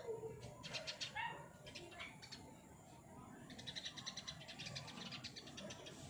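Birds calling from dense undergrowth: a rapid high trill comes in spells, about a second in and again from the middle on, with a few short, lower sliding calls between.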